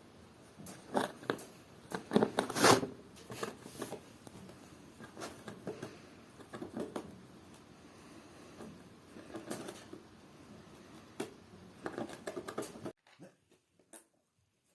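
Irregular close-up handling noises: rustles, taps and clicks of small objects being moved, stopping abruptly about thirteen seconds in, with a few faint clicks after.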